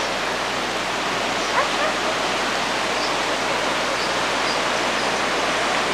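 Flash-flood water rushing steadily down a wadi channel, a dense even roar with no pauses.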